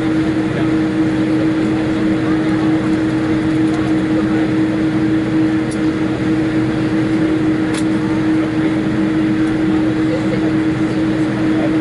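Steady cabin noise inside a Boeing 787-8 Dreamliner taxiing after landing: an even rush of engine and air noise with a constant low hum.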